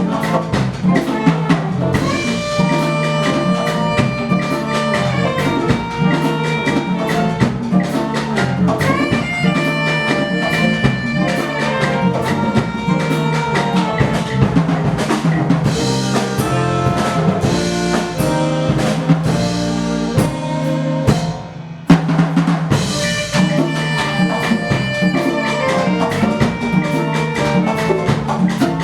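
Live Afro-Cuban/Latin jazz ensemble playing: drum kit and hand percussion under brass holding sustained chords. About 21 seconds in the band briefly drops away, then comes back in on a loud accent.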